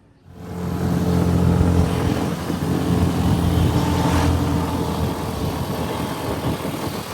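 Motorbike engine running at a steady cruise, with a rush of wind and road noise. It comes in suddenly about half a second in.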